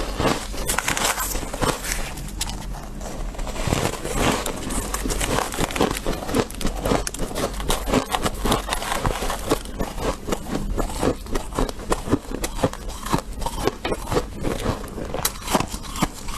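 Close-miked chewing of freezer frost: a steady run of squeaky, crunchy bites, several crunches a second.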